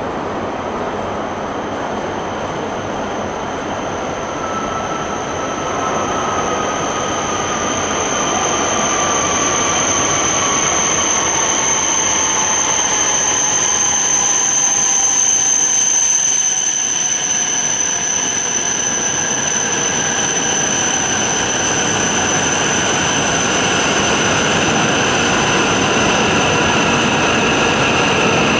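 Shinkansen train moving through the station, growing louder, with a steady high-pitched whine and a motor whine that falls slowly in pitch, over wheel and rolling noise.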